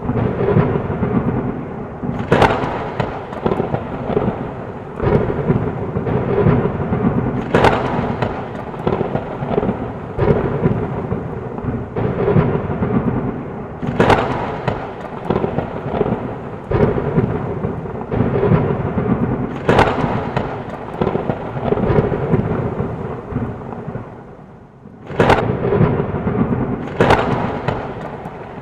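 Heavy rain with continuous rolling thunder, broken by sharp thunder cracks about every five seconds. Near the end the storm thins out briefly before a crack brings it back.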